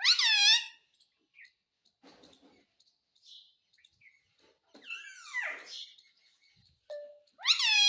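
Indian ringneck parrot calling. There are two loud, sharp, downward-bending squawks, one at the start and one near the end, a longer falling call about five seconds in, and soft chatter in between.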